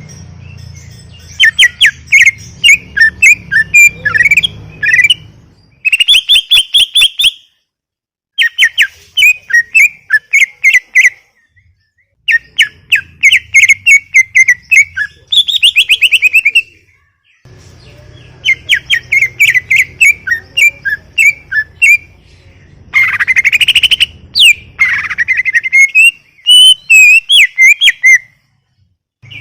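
Cucak ijo (green leafbird) singing loudly: a long series of rapid chattering and whistled phrases, each a few seconds long, broken by short pauses, with rising whistled sweeps near the end.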